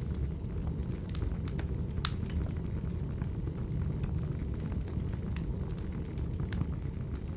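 Wood fire burning: a steady low rumble of flame with scattered sharp crackles and pops, the loudest pop about two seconds in.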